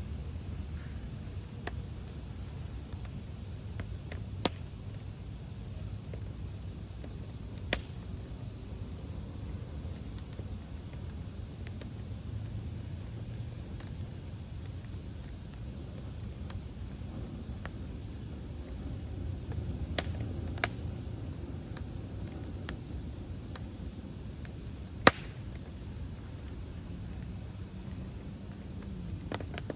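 Crickets chirping in a steady high-pitched chorus over a burning campfire's low rumble, with a few sharp pops of crackling firewood scattered through, the loudest a few seconds before the end.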